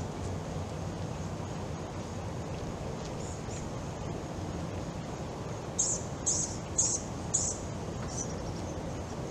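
A bird chirping: about six seconds in, four loud, short, high calls about half a second apart, then a fainter one, over steady outdoor background noise.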